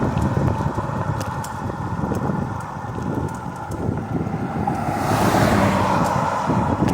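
Road and engine noise heard inside a moving car: a steady low rumble that swells louder for a moment about five seconds in.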